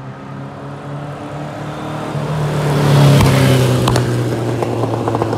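1970 Volkswagen Beetle's air-cooled flat-four engine running under throttle, growing louder to about three seconds in, with a couple of sharp exhaust pops soon after, the backfires this stock Beetle gives when the throttle comes off.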